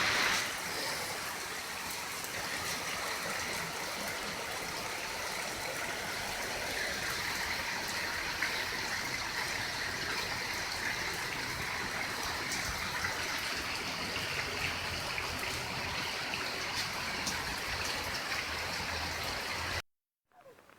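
Running water rushing steadily, as from a rain-swollen stream, and cutting off abruptly near the end.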